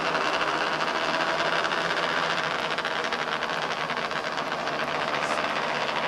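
A pack of small race cars' engines running together as the field circles on the pace laps: a steady, dense buzzing drone.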